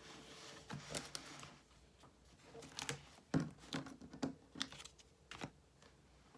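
Light handling sounds at a study desk: a soft rustle in the first second or so, then a quick run of small clicks and taps, with one sharper knock near the middle.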